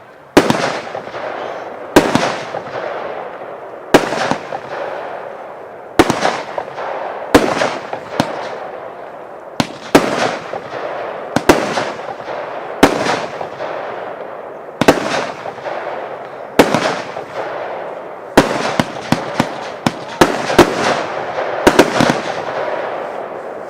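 Royal Fireworks 'China by Night' firework firing a sequence of sharp bangs about every one and a half to two seconds, each trailing off in a fading crackle, with a quicker volley of bangs shortly before the end.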